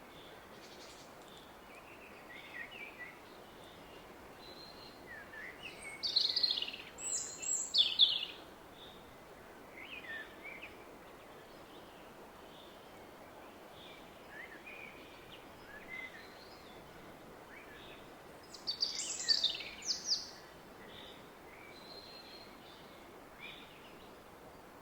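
Woodland birds singing, loudest in two bursts about six seconds and nineteen seconds in, with softer calls between, over the steady rush of a distant river.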